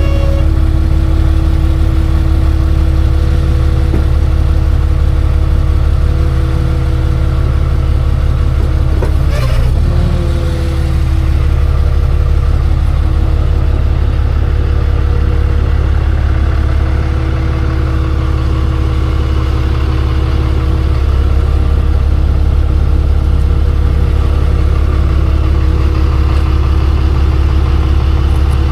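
Tow truck engine running steadily under way, a loud, even low rumble with a constant engine tone. There is a short knock about nine seconds in, where the engine tone briefly drops and then settles back.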